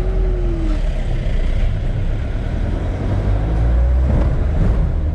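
Jeep engine running, with a heavy, steady low rumble from the vehicle on the move.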